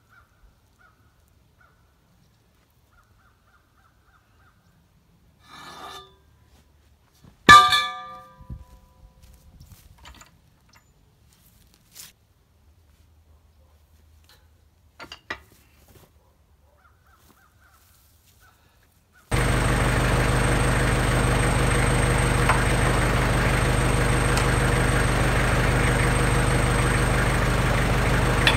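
Kubota L35 tractor's diesel engine running steadily, starting abruptly about two-thirds of the way in, with a low hum and a thin high whine. Before that it is mostly quiet: a few short clicks and faint pitched sounds, and one loud, brief pitched call about a third of the way in.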